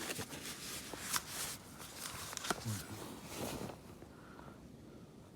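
A person eating glass noodles from a hotpot: several short slurps and mouth noises over the first few seconds, with a brief low 'mm' hum about two and a half seconds in.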